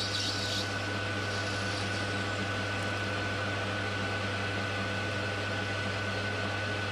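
Metal lathe running steadily, with a constant motor hum and a steady high whine. A higher hiss from the work stops within the first second.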